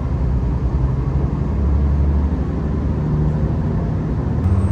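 Diesel railcar engine and running noise inside the carriage as the train pulls away and gathers speed, a low drone whose pitch shifts a few times.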